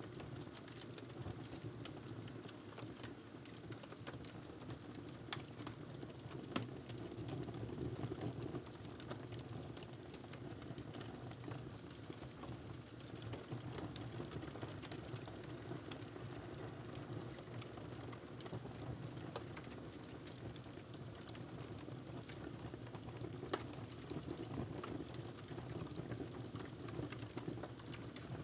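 Wood fire crackling in a fireplace: a steady low rumble under frequent small crackles, with a few sharper pops, one about five seconds in, one near seven seconds and one near the last third.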